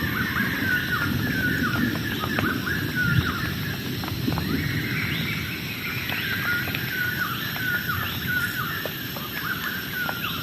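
A chorus of animals calling: short chirping calls around 1–2 kHz, repeating several times a second and overlapping, over a steady low rushing noise with scattered small ticks.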